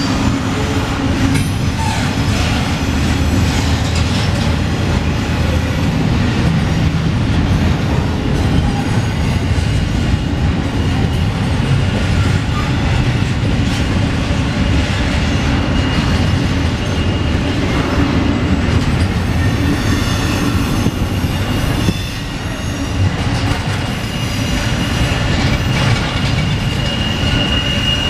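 Double-stack intermodal freight train rolling past: a steady rumble of steel wheels on rail, with a thin, high wheel squeal that grows louder near the end.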